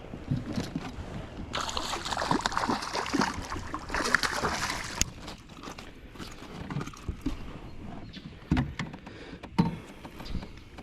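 Water splashing and sloshing against a fishing kayak, loudest for a few seconds about a second and a half in, followed by a few sharp knocks.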